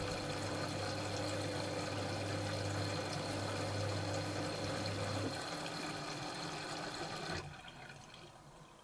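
Dyson Contrarotator CR01 washing machine filling with water at the start of its cycle: a steady rush of water with a low hum, the hum stopping about five seconds in and the water cutting off about two seconds later.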